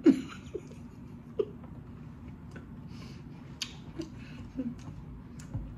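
A mouthful of whole boiled potato being chewed with the mouth closed: soft wet mouth sounds and a few small clicks, with one brief louder mouth or throat sound right at the start.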